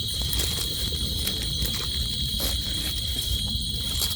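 Night insects, crickets, chirring in a steady high-pitched drone, over a low rumble and a few faint clicks.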